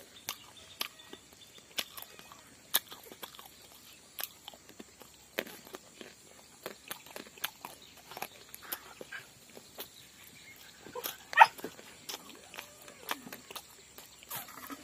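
Close-up mouth sounds of someone eating soft pumpkin pieces by hand: wet chewing, smacking and lip clicks at an uneven pace. One short, louder pitched sound stands out about eleven seconds in.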